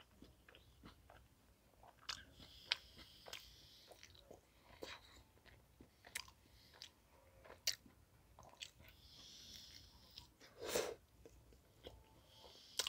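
Faint close-up chewing of a pizza slice dipped in ranch: soft wet mouth clicks and smacks with a few crunchy bites, and one fuller mouth sound a little before eleven seconds.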